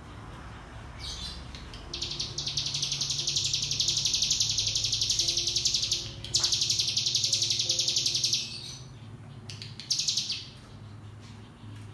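Ciblek gunung (hill prinia) singing its 'ngebren' song: a long, fast, high-pitched rattling trill that starts about two seconds in, breaks off briefly, runs on for about two more seconds, and comes back as a short burst near the end.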